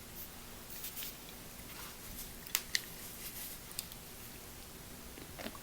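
A few small, sharp clicks and taps over quiet room tone, two close together about two and a half seconds in, from things being handled at a dinner table.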